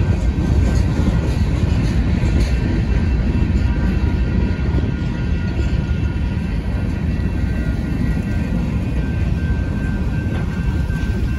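Freight train of covered hopper cars rolling steadily past: a continuous rumble of steel wheels on rails, with a faint steady high whine above it.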